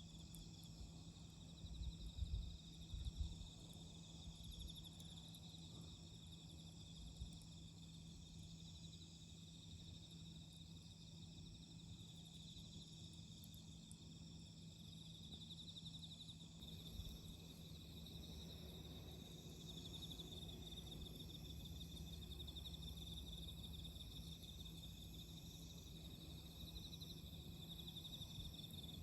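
A faint, steady chorus of autumn crickets chirring, with a low steady hum beneath and a few soft low thumps about two to three seconds in.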